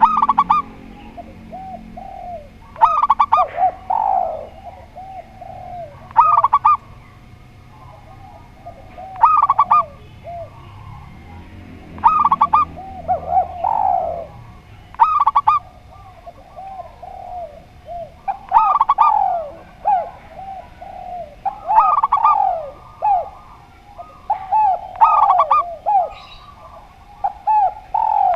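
Spotted dove and zebra dove cooing against each other. Short, bright, clipped phrases recur about every three seconds, with lower gliding coos running between and over them.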